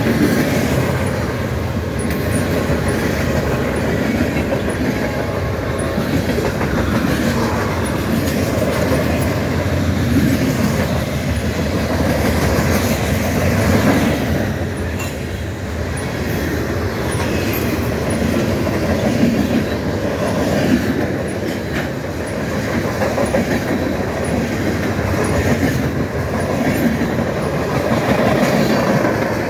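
Loaded freight train's cars rolling past close at speed: a continuous rumble and clatter of steel wheels on the rails, swelling and easing as the cars go by.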